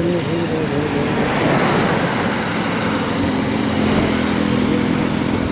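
Motorcycle engine running on the move, its pitch shifting in the first second and then holding steady, with a rushing noise through the middle.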